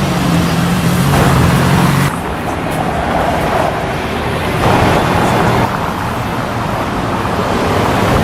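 Car engine running with a steady low note that stops about two seconds in, followed by street traffic noise with a louder passing swell around the middle.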